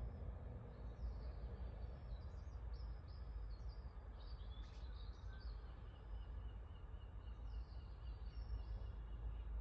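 Small songbirds singing: a run of high, quick twittering phrases, then a fast even series of short repeated notes in the second half, over a steady low rumble.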